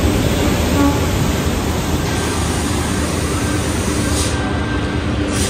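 Rajdhani Express passenger coach rolling slowly into a station: the steady rumble and rush of the moving train, with a faint thin held tone through the second half.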